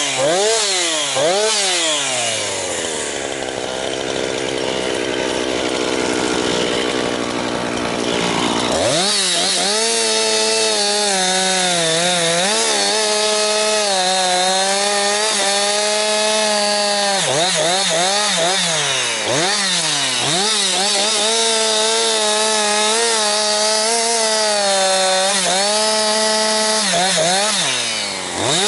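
Jonsered 2156 two-stroke chainsaw running at high revs and cutting through firewood, its pitch dipping under load in the cuts and rising again between them. It is running cleanly on its rebuilt Walbro HDA199 carburettor, with good throttle response.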